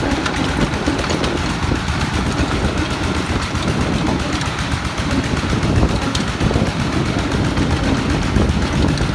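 Single-cylinder D22 diesel engine of a công nông farm vehicle running steadily with a rapid, even knocking beat.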